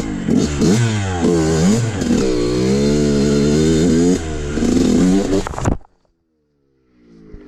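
Dirt bike engine revving up and down repeatedly as it is ridden, its pitch swinging up and down every second or so. The sound then cuts off abruptly about three quarters of the way through into a second of silence, and comes back faintly near the end.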